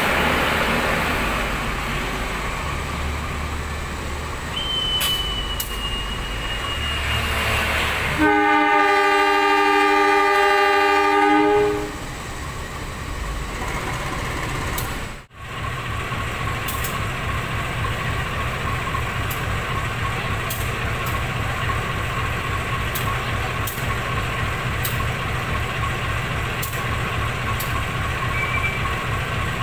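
Train running, heard from the locomotive, and about eight seconds in the locomotive horn sounds one loud multi-tone blast lasting about three and a half seconds. After a brief break, steady running noise with a faint hum and light regular clicks continues.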